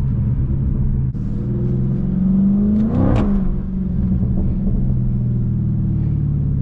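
Dodge Charger Scat Pack's 392 Hemi V8 running under throttle, its pitch climbing over the first few seconds with a brief sharp rise about three seconds in, then settling to a steady drone.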